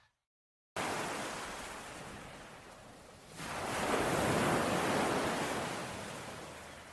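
Ocean surf: after a moment of dead silence, the wash of a wave comes in suddenly and slowly fades, then a second, louder wave swells and breaks about three and a half seconds in and recedes.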